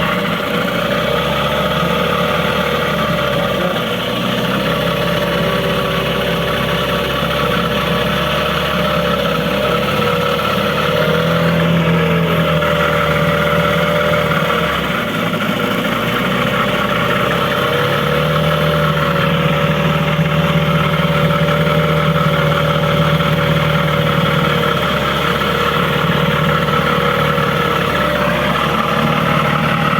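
A tour boat's engine running steadily at a low, even hum.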